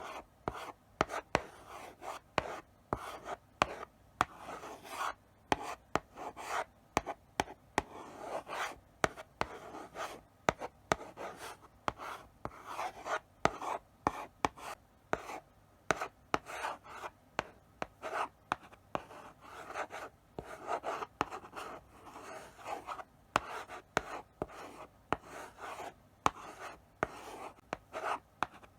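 Chalk writing slowly on a blackboard: short scratchy strokes one after another, several a second, broken by sharp taps as the chalk meets the board.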